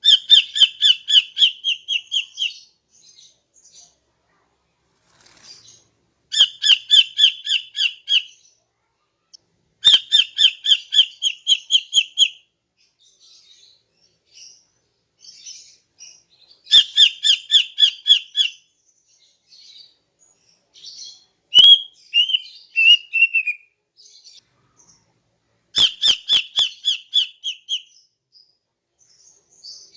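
A female green leafbird (cucak ijo) calling. It gives about five bursts of rapid, evenly repeated chattering notes, each about two seconds long and a few seconds apart, with a shorter warbling phrase between the fourth and fifth bursts and faint chirps in the gaps.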